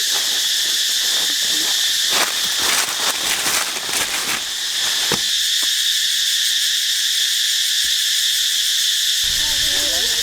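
Steady high-pitched chorus of forest insects such as crickets, with a burst of crackling clicks from about two to five seconds in.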